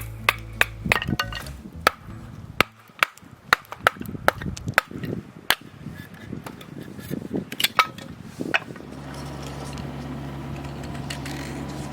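Irregular sharp striking blows, about a dozen over eight seconds, in the manner of camp work with a hammer or blade; from about nine seconds a steady low hum takes over.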